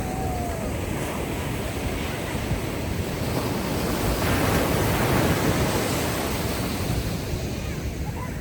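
Ocean waves washing ashore on a beach, one wave swelling and breaking about halfway through before easing off.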